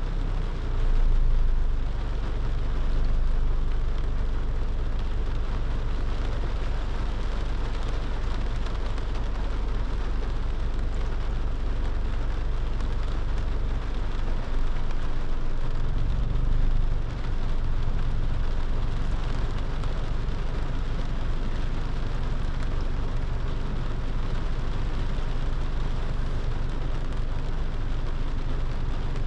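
Rain on a car driving along a road: a steady rain hiss over a low road and engine rumble that dips briefly about halfway through and then swells again.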